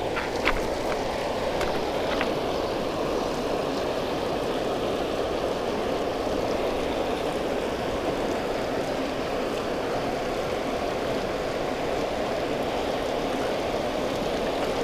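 Steady rush of water pouring through a spillway, an even roar with no change in pitch. A few faint clicks come in the first couple of seconds.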